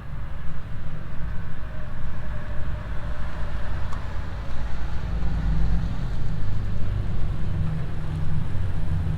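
Low, steady rumble of a car driving, engine and road noise, growing a little stronger about five seconds in.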